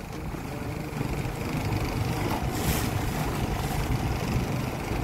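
Boat motor running steadily underway, a low rumble, with brief gusts of hiss from wind on the microphone.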